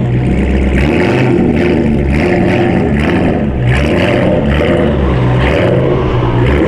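A car engine revving hard again and again, its pitch jumping up and down.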